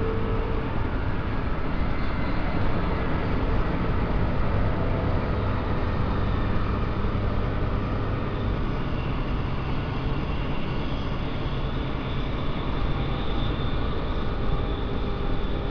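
Interior running noise of a Queensland Rail electric suburban train in motion: a steady rumble of wheels on rail, with a faint high whine coming in about halfway through.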